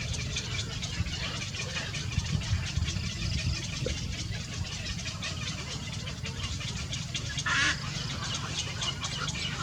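Small birds chirping rapidly and repeatedly, with one louder, harsher call about seven and a half seconds in, over a steady low hum.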